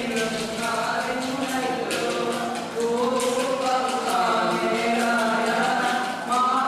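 A group of voices singing together, with a regular beat under the song.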